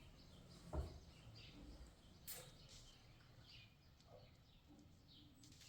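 Faint, scattered bird chirps over near silence, with a soft thump just under a second in and a single click a little past two seconds.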